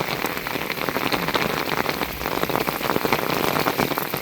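Heavy thunderstorm rain pouring down: a steady, dense patter of many individual drops striking the surfaces around the microphone.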